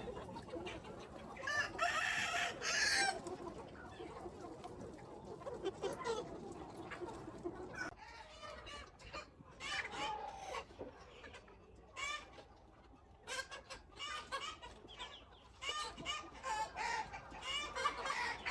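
Free-range chickens clucking, with a rooster crowing once about two seconds in. Short clucks come in quick runs through the second half.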